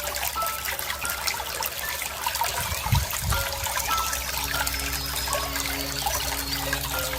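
Running water trickling and splashing steadily, with small birds chirping over it.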